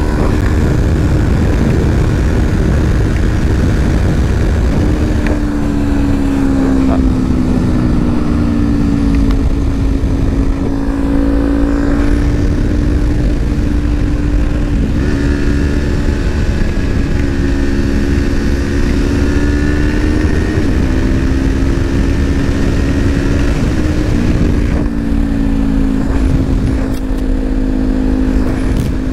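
Parallel-twin motorcycle engine running at cruising speed, its note dipping and picking up again a few times as the throttle changes. A heavy rush of wind buffets the helmet microphone.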